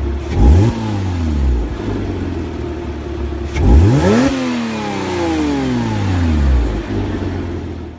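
Porsche Boxster's 2.7-litre flat-six idling and blipped twice, the second rev higher, each time the revs shooting up and then falling back slowly to idle.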